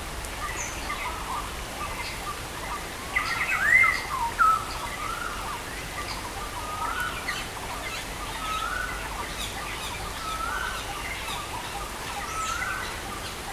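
Birds chirping and calling over a steady hiss of rain. The loudest calls come about four seconds in, then a short rising-and-falling phrase repeats every second or so.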